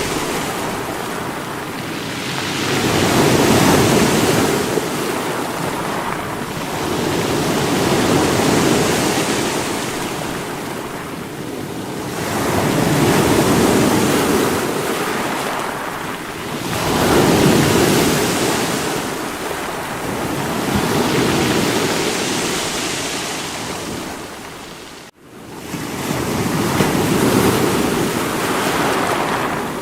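Sea waves breaking against rocks, the surf swelling and fading every four to five seconds. The sound cuts out suddenly for an instant about five seconds before the end, then returns.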